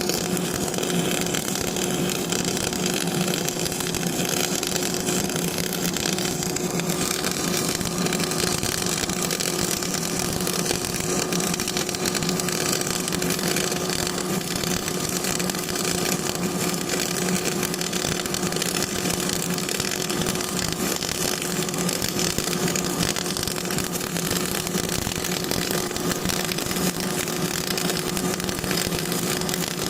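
Electric arc welding: the arc crackles and hisses steadily and without a break, over a steady low hum.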